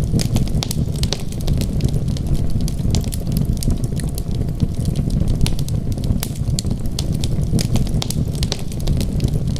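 Wood fire crackling, with many small sharp pops scattered irregularly over a steady low rumble.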